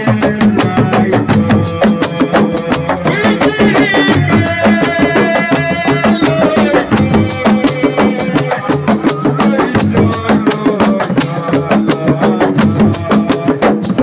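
Live assiko band music: fast, dense hand-drum percussion with a bass drum, and a held melodic line over it for a few seconds near the middle.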